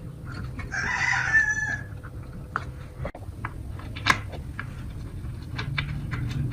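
A rooster crows once, about a second in, over a low steady hum. Scattered clicks run throughout, with one sharp tap about four seconds in.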